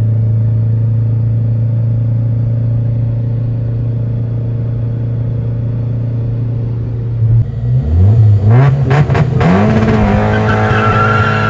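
Peugeot 306 Rallye's 1.8 16-valve engine running steadily, heard from inside the cabin, then revved up from about seven seconds in, climbing and held high for a standing-start launch. Near the end the car launches with its tyres squealing as they spin.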